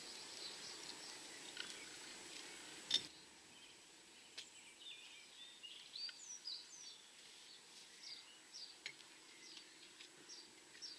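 Small birds chirping in short, high, repeated calls against faint outdoor background noise. A single sharp click about three seconds in is the loudest sound, and after it the background hiss drops.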